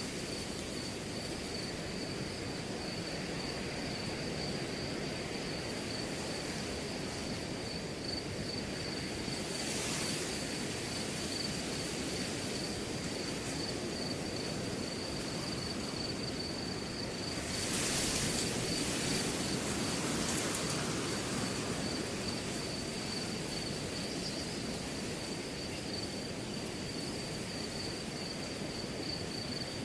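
Wind blowing through a grass field, a steady rustle that swells with gusts about a third of the way in and again a little past the middle, over a continuous high cricket trill.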